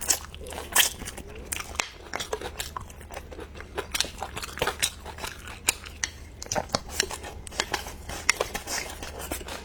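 Close-miked eating: a person biting and chewing, with many sharp, irregular crunchy clicks over a steady low hum.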